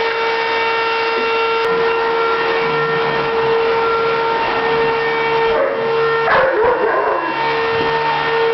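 Vacuum cleaner running with a steady whine, and a dog barking about six seconds in.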